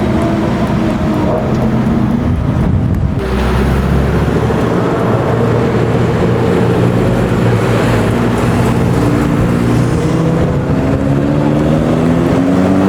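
A car engine running close by, its pitch shifting about three seconds in and then climbing steadily toward the end as it accelerates.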